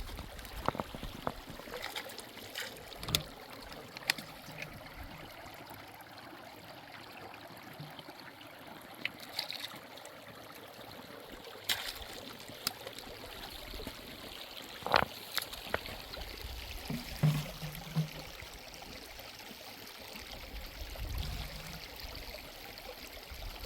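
Water from a mountain spring running in a steady trickle, with scattered short clicks and knocks over it, the loudest about fifteen and seventeen seconds in.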